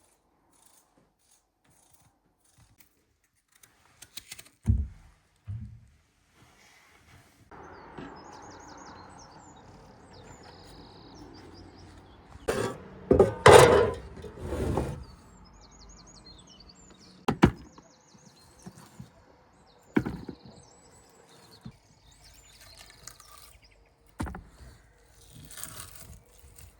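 Scattered wooden knocks and thuds: two heavy thuds, then a loud cluster of knocks and a few single sharp ones. Birds chirp faintly over a steady outdoor noise.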